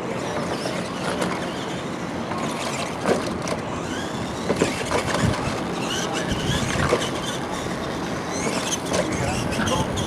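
Radio-controlled monster trucks running, a busy mechanical noise broken by irregular knocks and clatter.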